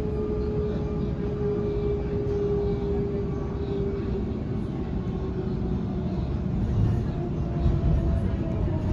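Cabin noise of a Sydney Trains Waratah electric passenger train in motion: a steady low rumble of wheels on the track with a faint electric motor whine. The whine sinks slightly in pitch, then rises again in the second half.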